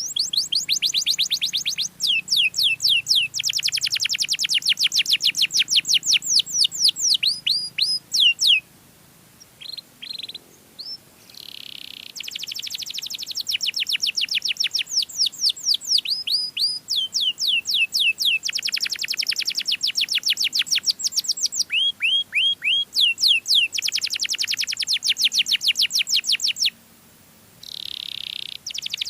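Domestic canary singing long rolls of rapid repeated notes, each roll on a different note. The song breaks off briefly about a third of the way in and again near the end.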